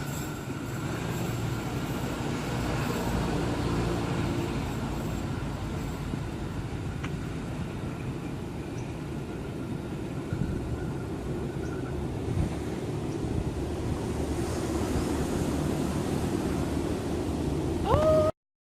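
A passenger train rumbling steadily past on the rails. Near the end a brief rising tone sounds, the loudest moment, and then the sound cuts off abruptly.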